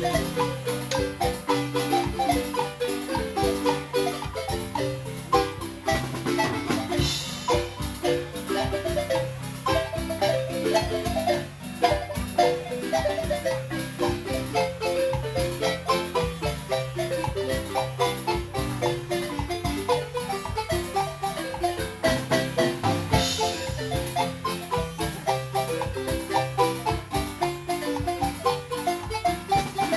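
Marimba music: quick runs of struck wooden-bar notes in a brisk rhythm over a bass line, starting abruptly at the beginning.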